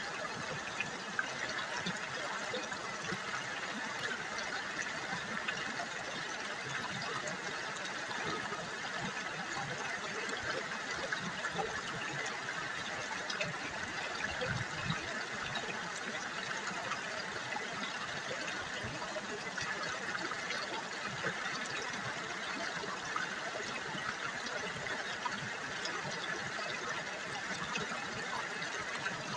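River water trickling and babbling over stones, a steady splashing rush with small crackles throughout.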